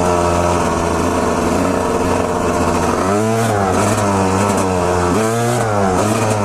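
Two-stroke dirt bike engine running steadily on the throttle, then revving up and dropping back several times from about three seconds in.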